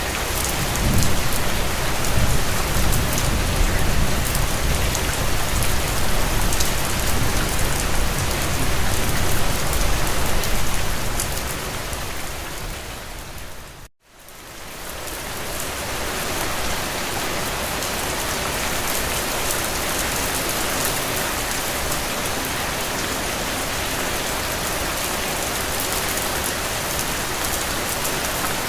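Steady rain falling on a window pane, a dense even hiss with a low rumble underneath in the first half. About halfway through it fades out to a moment of silence and fades back in, the join of a looped rain recording.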